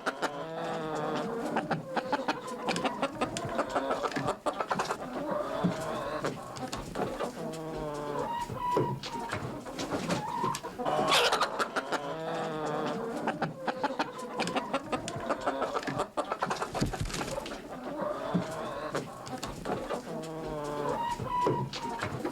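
Several domestic chickens clucking continuously, with overlapping calls and frequent short scratching and pecking noises as they move about.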